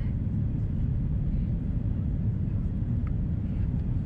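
Steady low rumble of cabin noise inside an Airbus A330-300 on approach: its Rolls-Royce Trent 700 engines and the airflow along the fuselage.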